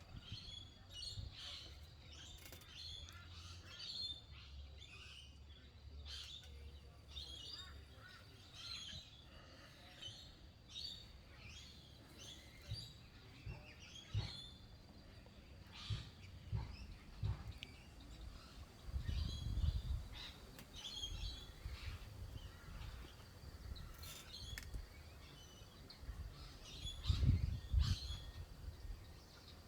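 A chorus of birds chirping and calling. Gusts of wind rumble on the microphone, loudest about two-thirds of the way through and again near the end.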